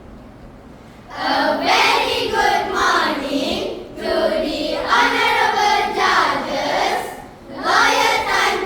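A group of children singing together, starting about a second in, in phrases with short breaks between them.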